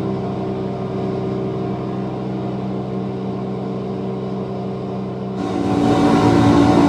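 Film soundtrack played through Klipsch in-ceiling Dolby Atmos speakers: a steady engine drone with an even hum. About five and a half seconds in it turns suddenly louder and brighter, with a rush of noise over it.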